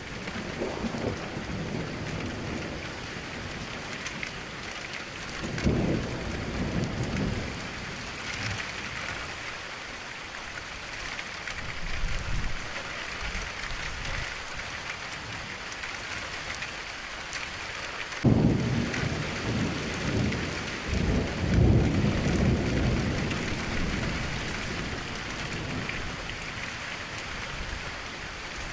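Steady rain hissing, with rolls of distant thunder: a rumble about six seconds in, a fainter one near the middle, and a sudden clap about eighteen seconds in that rumbles on for several seconds.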